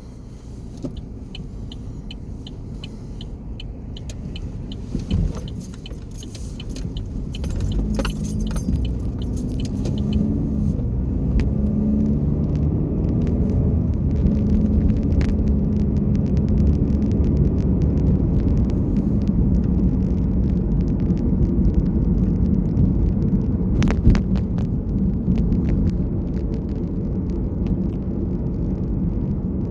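Motor vehicle engine and road rumble, building over the first several seconds and then holding steady with an engine hum, with light rattling clicks in the first ten seconds.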